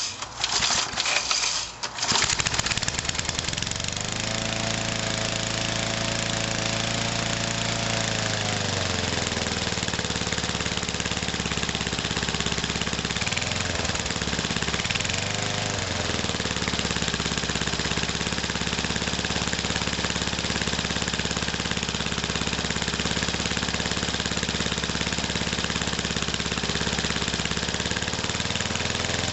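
Briggs & Stratton lawn mower engine pull-started with a few rapid cord pulls, catching about two seconds in on the third pull, then running steadily at a fast idle, its speed sagging and recovering a couple of times.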